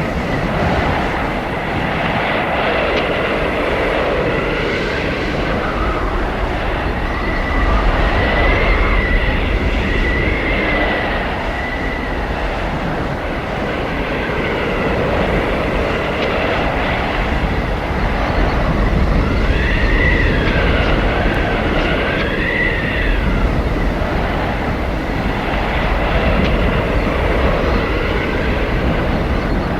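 Blizzard wind blowing hard in gusts, with a deep rumble beneath and high whistling howls that rise and fall, swelling about a third of the way in and again about two thirds of the way in.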